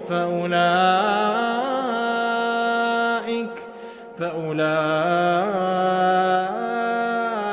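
Male Quran reciter chanting in melodic tajweed style, drawing the words out in long, slowly wavering held notes. The voice breaks off briefly for a breath about three and a half seconds in, then picks up again on a new long phrase.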